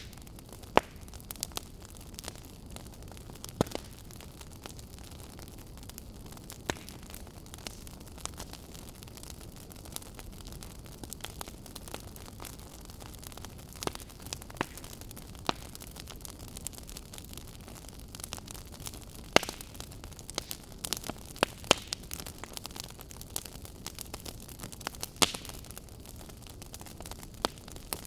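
Firewood burning with a steady hiss and irregular sharp crackles and pops, a handful of them distinctly louder than the rest.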